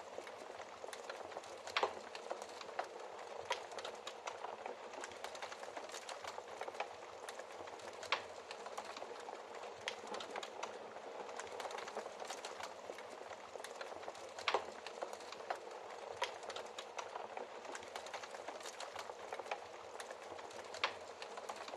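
Wood fire in a fireplace crackling: a dense run of small snaps over a soft hiss, with four louder pops spaced about six seconds apart.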